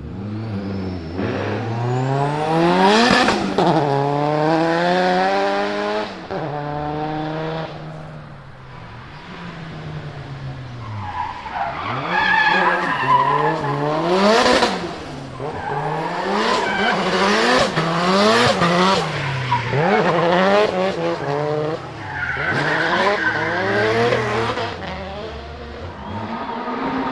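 Turbocharged Nissan SR20DET four-cylinder in a drifting S14 revving hard, its pitch climbing and falling again and again, sharpest around three seconds and fourteen seconds in. Tyres squeal in long stretches, above all in the second half.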